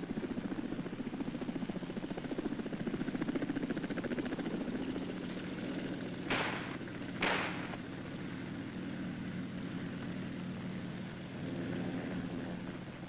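Helicopter rotors beating in a fast, even chop that steadies after about five seconds. Two short, sharp bursts come about a second apart near the middle.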